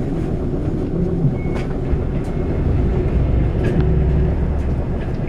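Diesel city bus engine idling while the bus stands at a stop, a steady low rumble. A few light clicks and a short high beep about a second and a half in, with another near the end.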